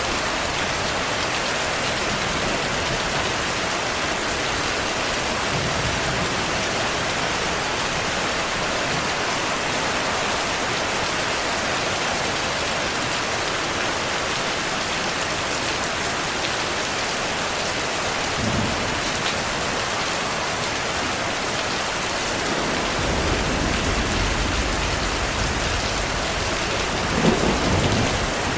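Heavy, steady rain falling, with a low rumble of thunder rolling in during the last few seconds and swelling to a short, louder peak near the end.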